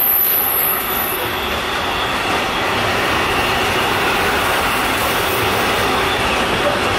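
Long intermodal freight train of pocket wagons loaded with semi-trailers rolling past at speed: a steady, loud rumble of steel wheels on the rails, with a faint whine from the wheels.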